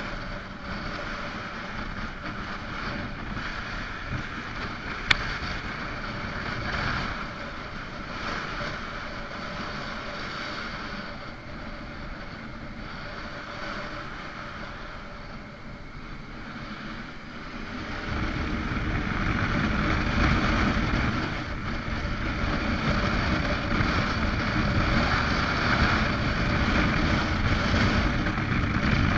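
Motorcycle engine running while riding, with wind rushing over the microphone. It gets louder and heavier about two-thirds of the way through, and a single sharp click comes early in the ride.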